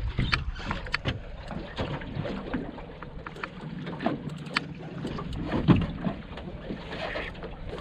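Wind buffeting the microphone aboard a small boat at sea, with irregular knocks and clicks throughout; the loudest knock comes a little before six seconds in.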